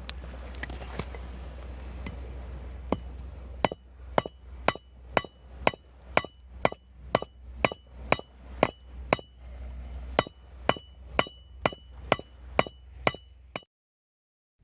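Hammer blows on steel against an anvil, forging a fire striker: a few single taps, then a steady run of about two blows a second, each ringing with a high metallic ping. The hammering cuts off abruptly near the end.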